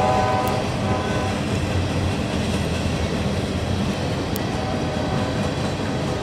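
A CSX diesel freight train passing. The tail of its horn stops about a second in, and after that comes the steady rumble and clatter of the train going by.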